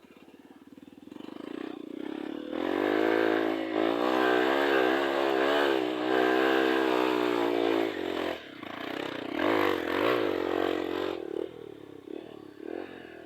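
Trail motorcycle engine revving, its pitch wavering up and down with the throttle, building over the first couple of seconds and staying loud until about eight seconds in. It drops off, revs again briefly around ten seconds, then fades.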